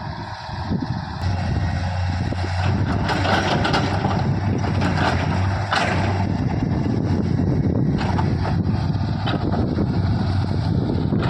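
Diesel engine of a JCB 3DX backhoe loader running steadily, louder from about a second in, with noisy rattling stretches about three to six seconds in.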